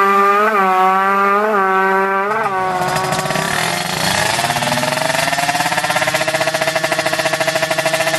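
Drag-racing motorcycle engine held at high revs, blipped briefly three times. About two seconds in, a different motorcycle engine takes over, lower and pulsing rapidly. Its pitch climbs, then holds steady.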